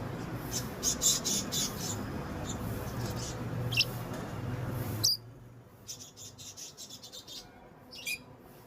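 Pet lovebirds chirping and squeaking in short, high, rapid bursts over a low background hum. The hum stops abruptly about five seconds in, after which the chirps go on more faintly.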